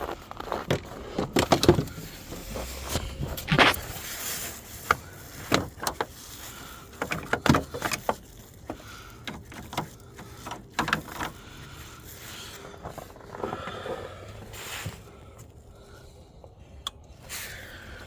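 Irregular clicks, knocks and clatter of a jump-starter booster pack and its cable clamps being handled and clipped onto a car battery's terminals.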